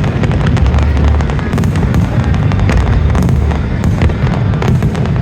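Aerial fireworks going off in rapid succession: many sharp bangs and crackles one after another over a deep, continuous low rumble.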